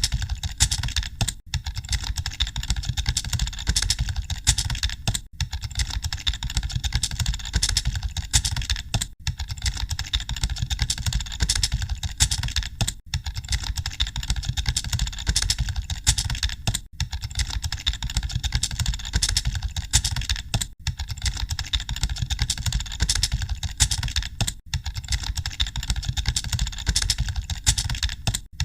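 Computer keyboards being typed on continuously, a dense clatter of key presses with a steady low hum beneath. The clatter breaks off briefly about every four seconds.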